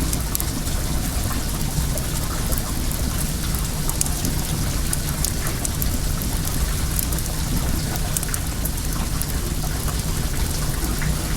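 Steady rush of flowing well water, with a wood fire crackling: short sharp pops scattered throughout.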